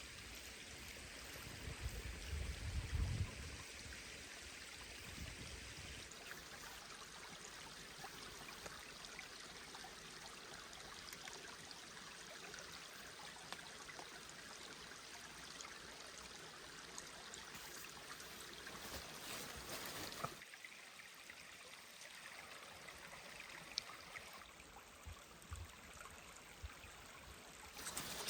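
Mountain stream flowing steadily over stones. About two seconds in a brief low rumble rises over it, and about twenty seconds in the rush drops suddenly to a quieter, thinner sound.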